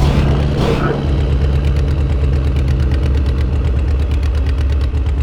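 Small tractor engine idling steadily with a fast, even beat.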